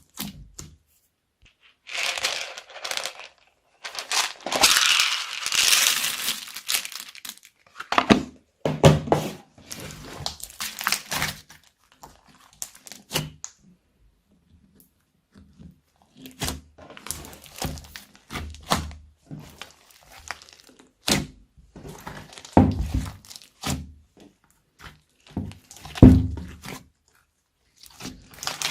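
Slime being pressed, stretched and folded by hand, in bursts of crackling and squishing with short silent pauses between. The first bursts are crisper and crinkly; the later ones are shorter, with soft thuds.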